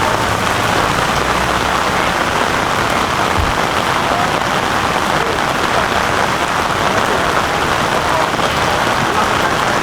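Heavy rain falling in a steady downpour, an even hiss of drops hitting the ground.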